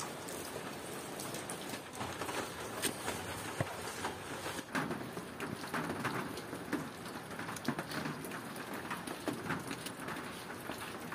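Steady rain falling, with many scattered sharper drips and taps over the even hiss.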